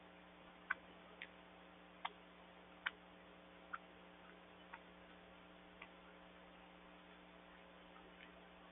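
Birds pecking and cracking sunflower seeds on a wooden deck: about seven sharp, irregular clicks in the first six seconds and a couple of fainter ones near the end, over a faint steady electrical hum.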